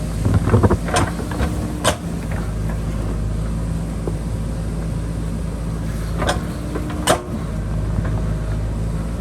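JCB backhoe loader's diesel engine running steadily while it digs. There is a burst of clatter about half a second in, and several sharp clanks from the bucket working against rock and soil, the clearest one about seven seconds in.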